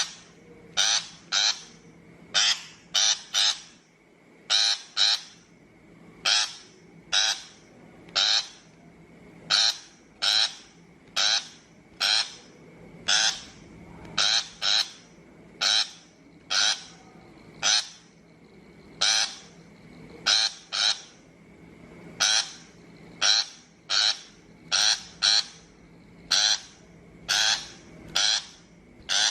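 A shrike giving harsh, rasping calls, short and repeated over and over, often in quick pairs, about one to two calls a second.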